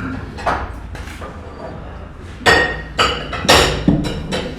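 Crockery and cutlery clattering: a light knock about half a second in, then a quick run of sharp, ringing clinks of china and glass being set down and stacked from about two and a half seconds on.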